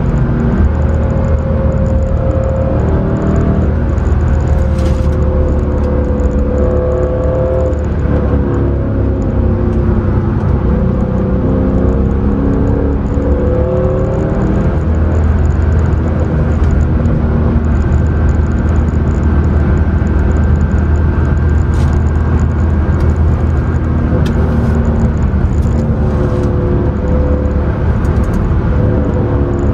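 Mercedes C63 AMG's 6.2-litre V8 heard from inside the cabin under way on track, its revs rising and falling over the first half, then held steady for about ten seconds before changing again near the end.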